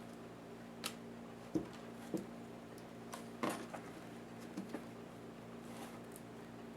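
Scattered light clicks and taps of small laptop parts being handled and pried during disassembly, about seven in all, over a steady low hum.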